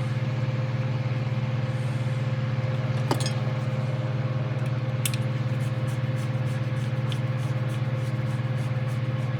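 A steady low hum, with a few faint, light clicks of small parts being handled as a screw is driven into a plastic model section.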